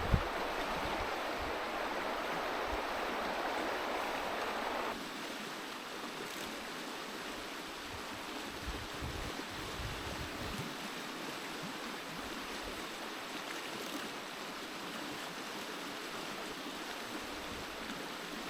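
Stream water rushing steadily, dropping a little in level about five seconds in, with occasional low wind buffeting on the microphone.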